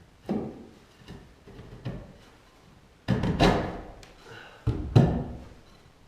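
A series of knocks and thuds: a few light knocks in the first two seconds, a longer, louder clatter about three seconds in, and a sharp, heavy knock about five seconds in.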